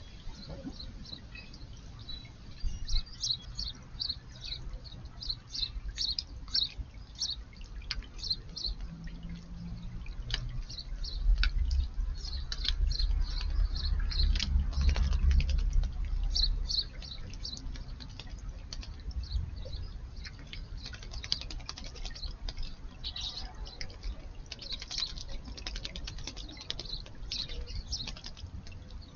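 House sparrows chirping in many quick, short, high notes, with light splashing and dripping of water as they bathe. A low rumble swells for several seconds in the middle.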